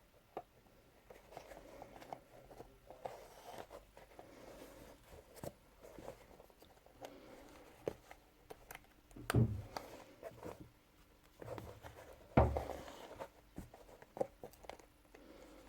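Hand-sewing neoprene: a needle pushed through the rubber and thread pulled tight, heard as soft rustling and small scattered clicks, with two louder handling knocks partway through.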